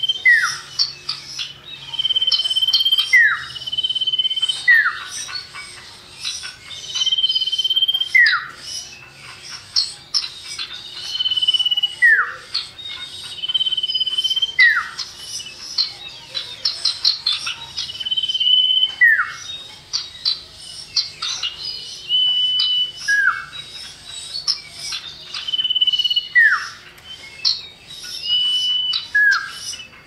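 Common iora calling: a drawn-out high whistle followed by a short note that drops in pitch, repeated about every two to four seconds, with rapid high twittering notes in between.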